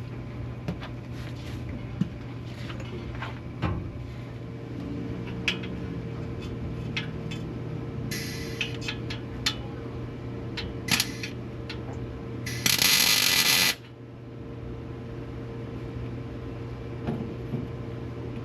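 Welder tack-welding exhaust pipe: scattered clicks and knocks over a steady hum, a short weld burst about eight seconds in, then a louder weld burst of about a second around thirteen seconds in.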